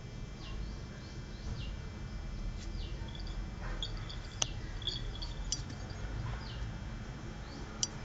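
A bird calling: short downward-sliding chirps repeated roughly once a second, with a brief flurry of quick chirps a little past the middle. A few sharp clicks and a steady low hum run underneath.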